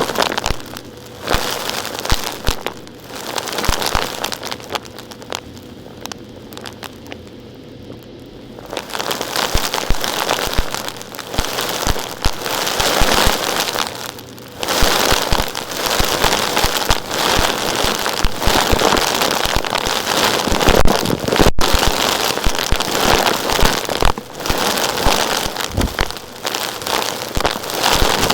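Small rocks and grit crackling and rattling densely in stretches, with short pauses and a quieter spell about a quarter of the way in.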